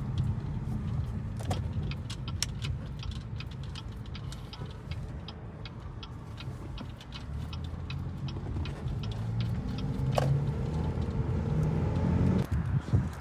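Car engine running with no exhaust system fitted, its low drone climbing in pitch as the car accelerates from about seven seconds in. Light ticking is heard over it, most of it in the first half.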